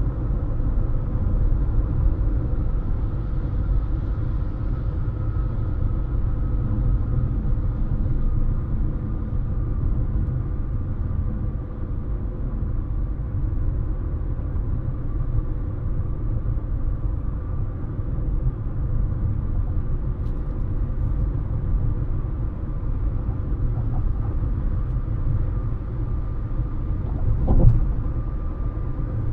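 Steady road noise of a car driving at speed: low tyre and engine noise with a faint steady hum, and one short thump about 27 seconds in.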